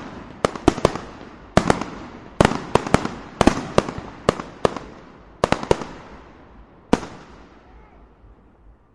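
Fireworks going off: a rapid, irregular volley of sharp bangs, well over a dozen, each echoing. The last bang comes about seven seconds in, and its echo dies away.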